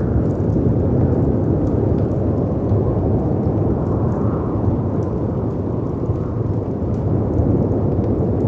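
Storm ambience: a steady low roar of wind and surf crashing against rocks, with faint scattered crackles from a fireplace.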